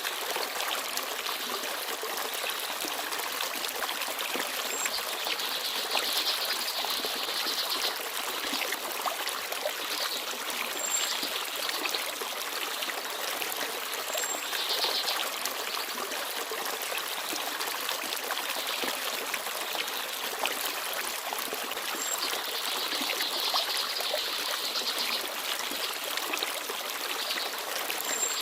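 Forest stream babbling and trickling, a steady rush of water that swells a little now and then, with a few brief high peeps.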